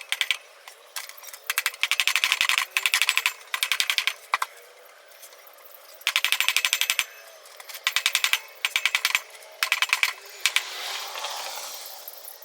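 A hand ratchet wrench is being worked back and forth on engine fasteners, making several short bursts of rapid, even clicking with pauses between them. A softer scraping noise follows near the end.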